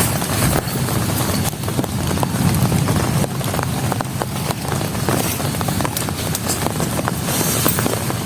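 Heavy rain falling, with many small irregular knocks scattered through a steady hiss.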